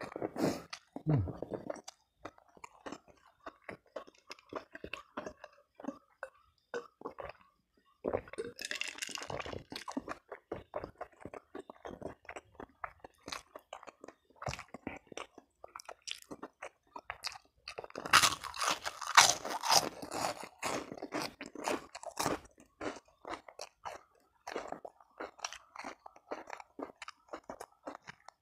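Close-miked chewing and crunching of crisp food in a mukbang, many quick irregular crunches, loudest and crispest in two spells about a third of the way in and again past the middle.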